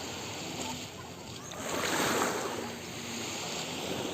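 Sea water washing and splashing with wind noise on the microphone, swelling to one louder wash about two seconds in.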